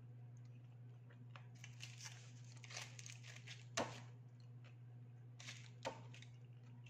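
Faint close-up eating sounds of a person chewing a spicy chicken sandwich, with soft rustling and crinkling and two sharp clicks, one about four seconds in and one about six seconds in. A steady low hum runs underneath.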